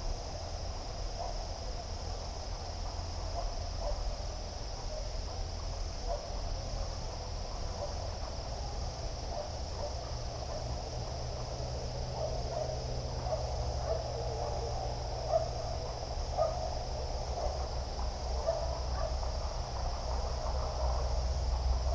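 Night nature ambience: a steady high insect chirring, with many short, low animal calls scattered over it that grow busier about halfway through, above a steady low rumble.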